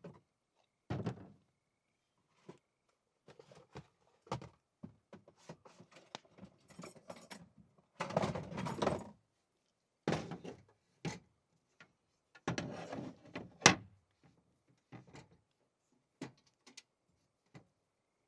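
Irregular knocks and thuds with stretches of rustling, and one sharp knock about three quarters of the way through.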